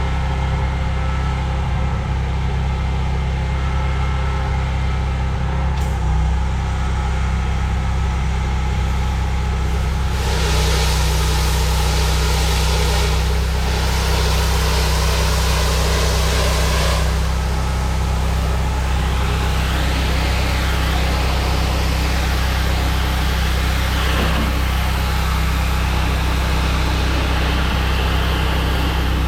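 Pressure washer engine running steadily with a constant low hum. About ten seconds in, the hiss of the high-pressure water spray on concrete starts, breaking off briefly a few times.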